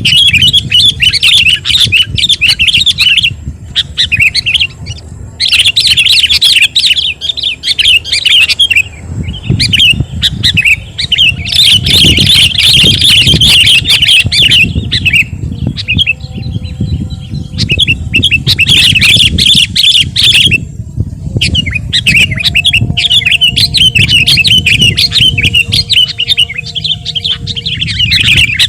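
Sooty-headed bulbul (kutilang) singing hard in long, rapid, chattering bouts of sharp notes, with short breaks every few seconds, over a low rumble.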